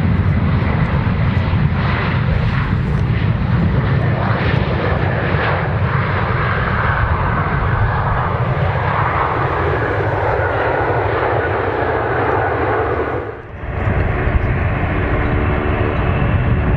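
Embraer E195LR's turbofan engines roaring as it lands. About thirteen seconds in, the sound dips briefly, then gives way to a steadier engine sound with several steady tones.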